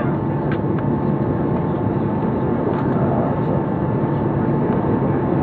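Steady cabin rumble of an Airbus A340-300 airliner taxiing after landing, its engines at idle, with a faint steady whine.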